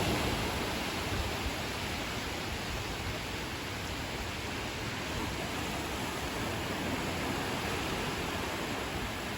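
Ocean surf washing on a beach as a steady, even rushing hiss, a little louder at first.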